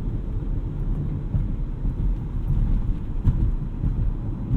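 Audi RS6 Avant's 591 hp twin-turbo V8 cruising at low revs, heard inside the cabin with steady road and tyre rumble. There is one sharp thump about three seconds in.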